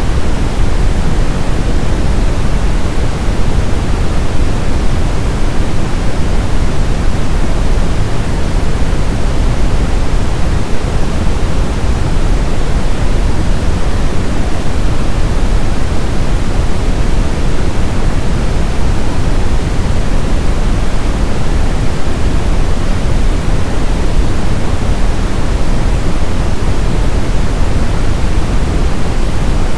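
Brown noise: a steady, loud synthetic hiss-rumble weighted toward the low end, deep like distant thunder or a waterfall, with no variation.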